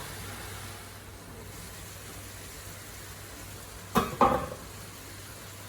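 Pork ribs with onions and garlic frying in oil, a steady soft sizzle. About four seconds in, two quick sharp knocks, like a utensil against the pot.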